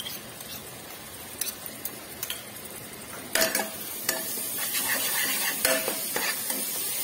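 Chopped onions with garlic paste and chilli powder sizzling in hot oil in a pot, with a steel spatula scraping and clicking against the pot as the masala is stirred. The stirring and sizzling grow louder about three seconds in.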